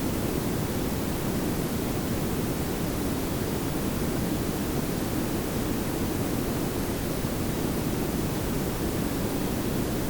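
Steady synthetic pink and brown noise layered together: an even, unchanging hiss over a heavier low rumble, with the bulk of the sound in the low end.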